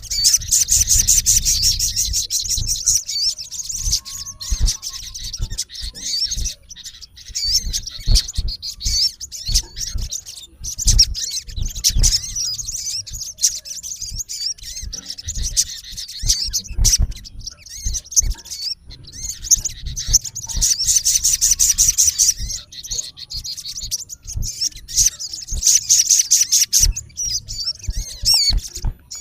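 Male olive-backed sunbird giving harsh, rapid high-pitched chirping calls in long runs, with shorter scattered notes between: the call a male gives at a rival.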